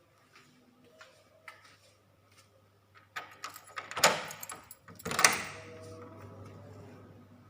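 A loud clatter of knocks and rattling, with two sharp bangs about a second apart, after a few faint ticks.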